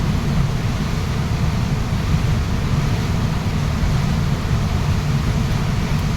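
Waterfall rushing: a steady, loud wash of water noise, heaviest in a deep low rumble.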